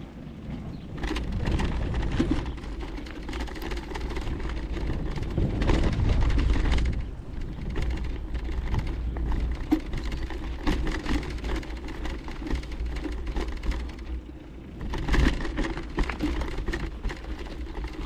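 Riding noise of a bicycle: wind buffeting the microphone as a low rumble, with rattles and clicks from the bike and its tyres on the ground.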